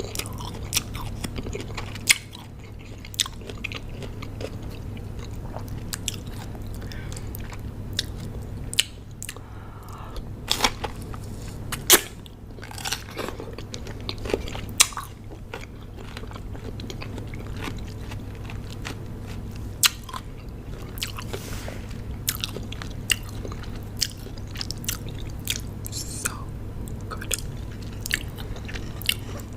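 Close-miked chewing of raw cucumber: wet, crunchy bites and chewing with sharp crackling snaps at irregular intervals, a few louder bites standing out. A steady low hum runs underneath.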